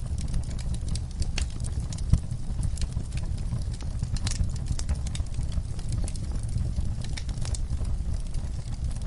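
Wood fire burning in a fireplace: a steady low rumble of flames with irregular crackles and pops from the burning logs, a sharper pop about two seconds in.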